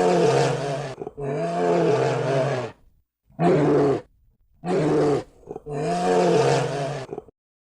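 Big cat roaring: about five drawn-out, pitched calls of a second or so each, with short gaps between them.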